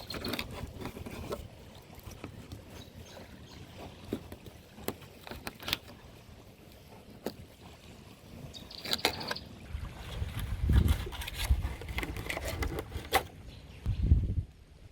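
Wind rumbling on the microphone, stronger in the second half, with scattered light knocks and scrapes from filleting whiting.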